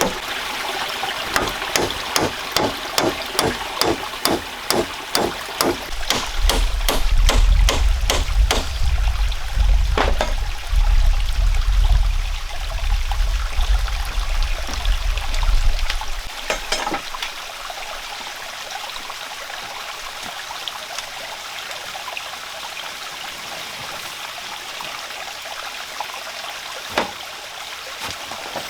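Steady rain. For the first nine seconds or so it is joined by regular sharp knocks, about two a second, and from about six seconds in to about sixteen seconds by a heavy low rumble that then stops.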